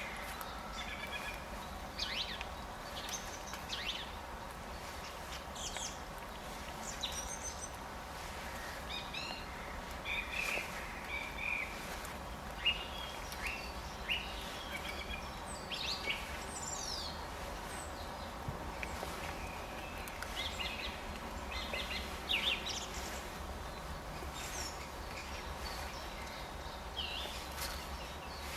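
Several small birds chirping and calling, short quick notes and falling calls scattered throughout, over a steady low background rumble.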